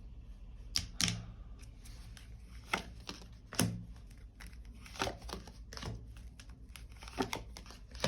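Tarot cards being shuffled and handled: a string of about eight sharp card snaps and taps at uneven intervals.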